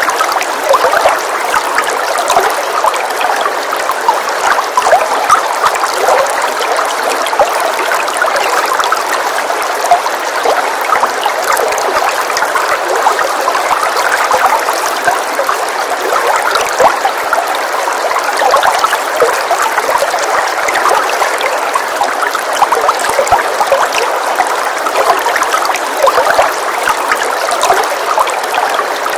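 Steady rain sound: an even wash of noise dense with small drop impacts that does not change.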